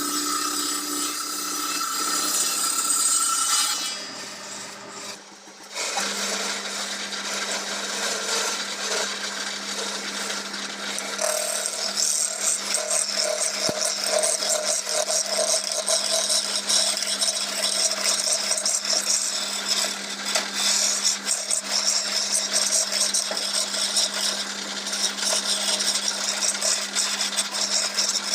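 Wood lathe spinning a black teak workpiece while a tool scrapes against the turning wood, a steady rasping noise over the motor's hum. The noise dips briefly about four seconds in, then carries on steadily.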